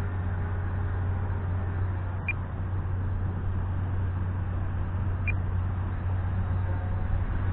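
Steady wind rumble on the microphone with the faint drone of a small RC 3D airplane's motor and propeller in flight. Two short high chirps about two and five seconds in.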